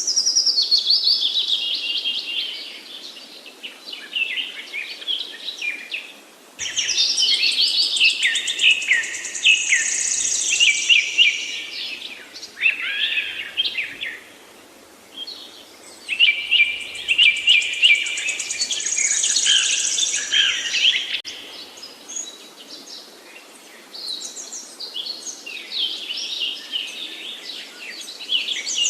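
Songbirds singing: loud, varied phrases of quick whistles and trills, each a few seconds long, with quieter stretches of song between. Two of the loud phrases start abruptly, about 7 and 16 seconds in.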